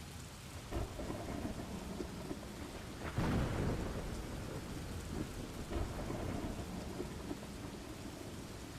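Steady rain falling, with low rolls of thunder; the loudest roll comes in about three seconds in and dies away over a couple of seconds.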